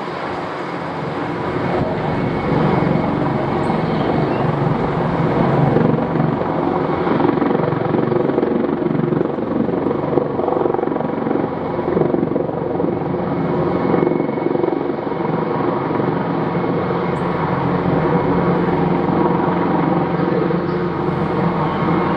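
Airbus Helicopters H225M twin-turboshaft military helicopter running loud and steady: a dense rotor-and-turbine hum full of steady tones, swelling slightly over the first couple of seconds.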